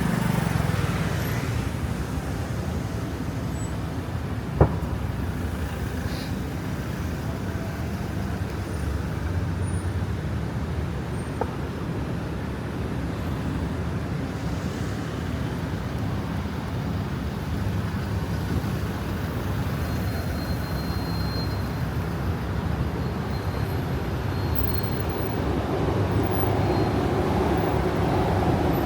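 Steady city street traffic: a continuous mix of passing vehicles and tyres. A single sharp click or knock comes about five seconds in.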